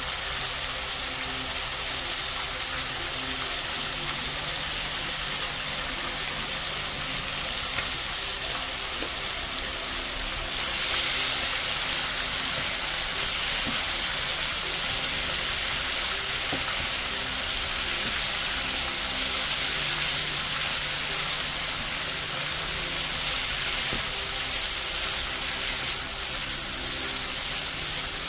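Rabbit pieces dry-roasting in oil in a frying pan, sizzling steadily as the last of the liquid cooks off; the sizzle gets louder about ten seconds in, and a spatula stirs the meat through the second half.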